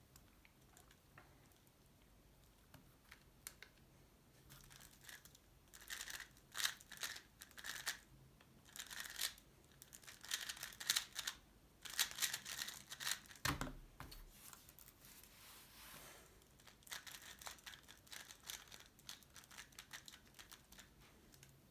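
A Tornado V3 Pioneer 3x3 speed cube being turned fast: rapid plastic clicking and rattling of the layers in quick flurries, thinning out to scattered turns near the end, with a soft thud about halfway through.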